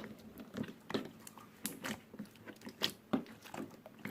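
Slime being squished and pressed by hand, making irregular sticky clicks and small pops, several a second.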